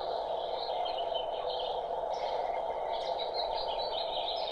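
Small birds chirping and twittering over a steady background hiss.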